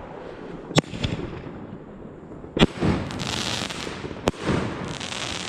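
Fireworks going off: three sharp bangs, roughly one and a half to two seconds apart, with hissing and crackling in between.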